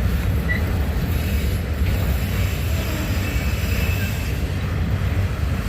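Wind buffeting the microphone: a steady, loud low rumble with a fluttering texture.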